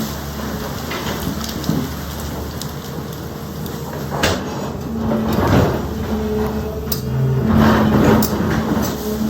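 Sany excavator's diesel engine running with its hum swelling and easing, while stones clatter and knock against the bucket, loudest about four seconds in and again near the end.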